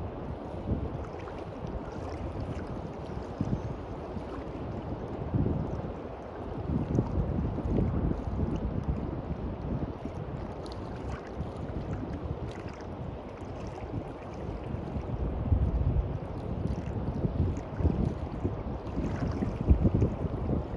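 Sea waves washing on a beach with wind gusting against the microphone, a steady rush with irregular low rumbling swells.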